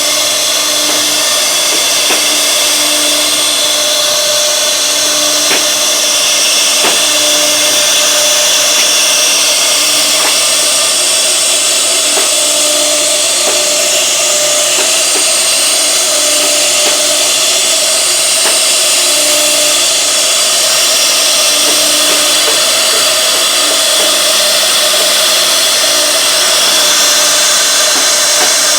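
CNC wood router running, its spindle cutting wood with a steady high-pitched whine and hiss. A lower hum comes and goes in short spells.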